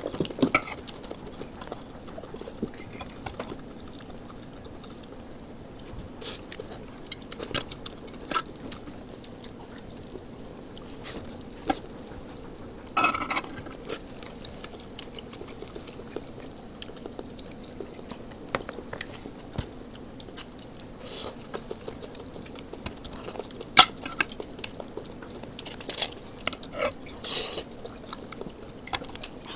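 Close-up eating sounds: chewing and biting, with irregular short crunches and clicks and an occasional clink of cutlery or dishes.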